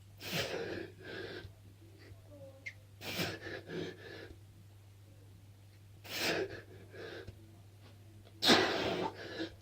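A man's heavy, breathy gasps: four hard breaths about three seconds apart, each followed by a shorter one, the last the loudest.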